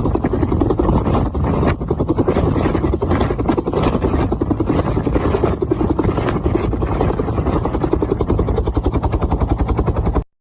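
Helicopter's rotor and engine running loud and close, a rapid, even beating of the blades throughout, cutting off abruptly near the end.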